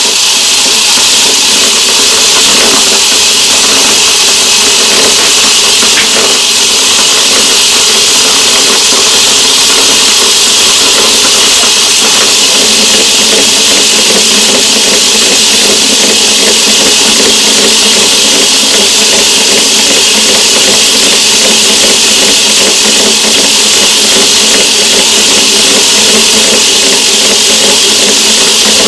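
Myford ML7 lathe running steadily under power in forward with the leadscrew engaged, its motor and gear train making an even whine and hiss while it takes a light screw-cutting pass on a metric thread.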